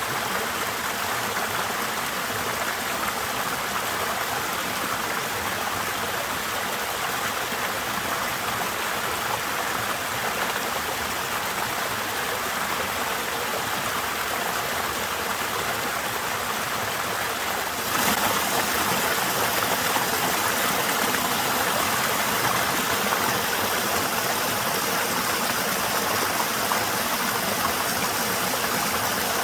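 Small waterfall running on a fairly low flow: a steady, even rush and splash of falling water. Partway through it suddenly gets a little louder and brighter, then runs on steadily.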